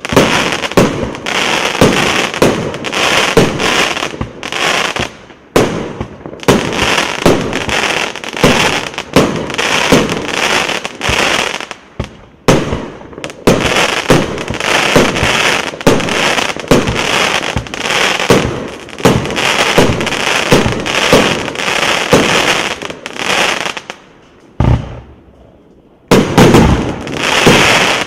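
A 178-shot, 1.2-inch fireworks cake ("Novogodnyaya Skazka") firing in rapid succession, a dense stream of shots and bursts with crackle. There are a few short breaks, the longest about 25 seconds in, before loud firing resumes near the end.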